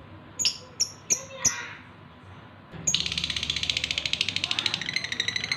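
Male lovebird in breeding condition calling for a female: four sharp chirps in the first second and a half, then, from about three seconds in, a fast continuous twittering chatter that is louder than the chirps.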